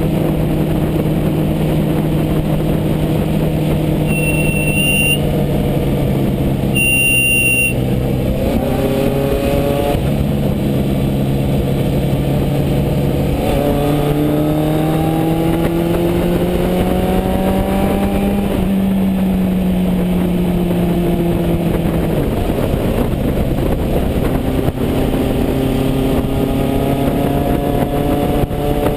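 A 1974 Honda CB550 Four's air-cooled inline-four running through an aftermarket MotoGP Werks exhaust while the bike is ridden, its pitch climbing as it pulls through the gears and dropping at each shift or roll-off. Twice, a few seconds in, a short high-pitched squeal sounds over the engine: the front brake squeal the rider is trying to cure.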